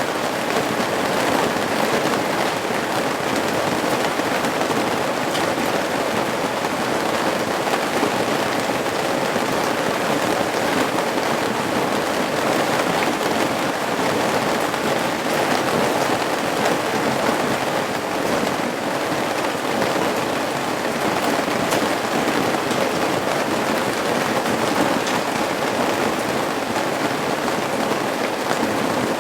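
Steady rain falling at the eaves, a dense even patter with scattered individual drop ticks, still falling hard rather than easing off.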